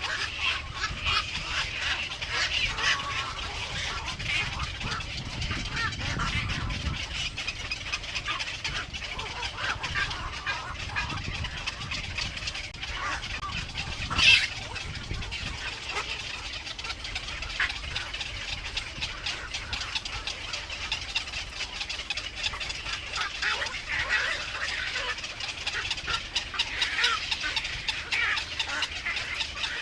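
Baby birds in a nest cheeping, a steady stream of short high chirps, with one louder sharp call about 14 seconds in.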